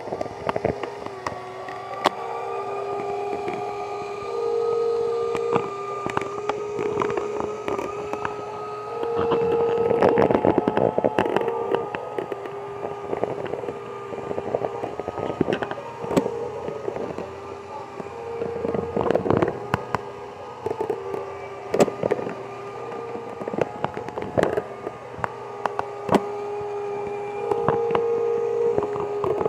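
Radio-controlled model truck running in place, a steady motor whine that steps slightly up and down in pitch, with scattered clicks and knocks throughout and a few louder swells.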